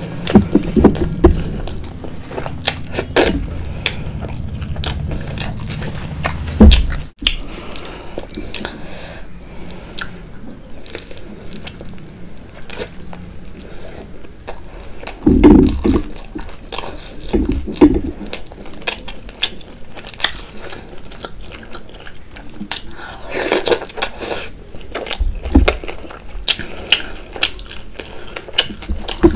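Close-miked eating: biting into and chewing fried momos, with irregular crunches and wet mouth clicks. A low steady hum sits under the first seven seconds and stops abruptly.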